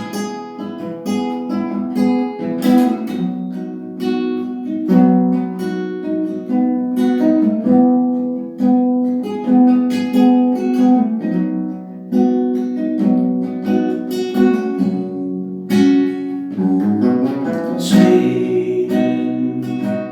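Solo acoustic guitar strummed in a slow chord progression, the instrumental introduction before the vocal comes in.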